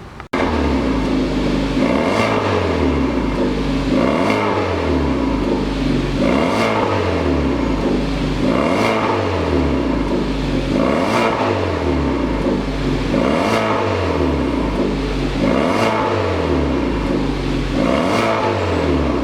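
Hyundai Veloster Turbo's turbocharged four-cylinder being revved through an aftermarket variable-valve exhaust, about eight free revs roughly two seconds apart, each rising and falling in pitch.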